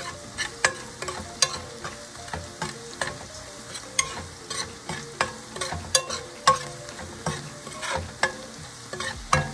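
Diced onions sizzling as they fry in oil in a pot, while a slotted metal spoon stirs them, clinking and scraping against the pan about twice a second.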